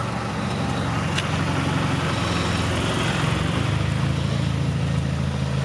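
Audi A3 (8P) 2.0T turbocharged four-cylinder idling steadily, through an exhaust with a 3-inch downpipe and the resonator deleted.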